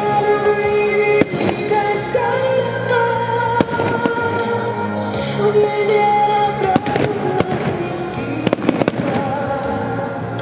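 Fireworks bursting overhead, a scattering of sharp bangs at irregular intervals, several in quick succession in the second half, over loud music with long held notes.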